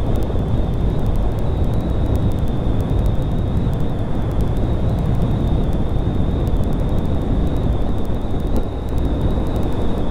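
Honda Grom 125 motorcycle under way: a steady rush of wind over the microphone, with the small single-cylinder engine running beneath it.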